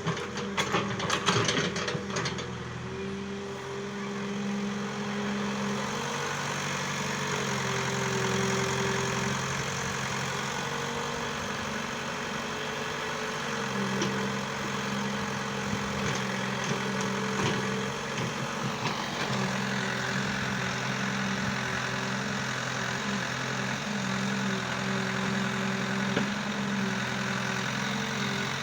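Excavator engine running steadily, its tone stepping up and down now and then, with a flurry of clanks and knocks in the first two seconds.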